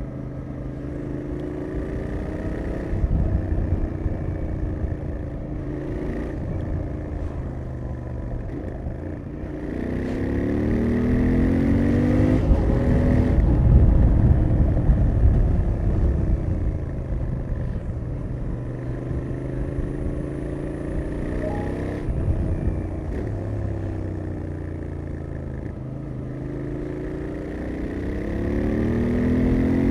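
Royal Enfield Interceptor 650's parallel-twin engine through its stock exhaust while riding, its note rising under acceleration and dropping between gears again and again. There is a louder, longer pull about ten to fourteen seconds in and another rise near the end.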